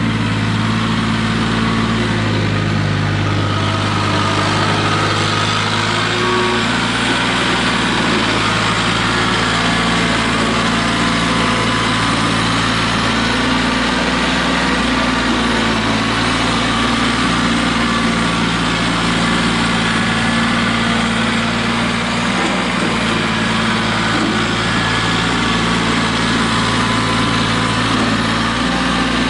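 Tractor engine running steadily while plowing snow, its pitch shifting slightly a few times.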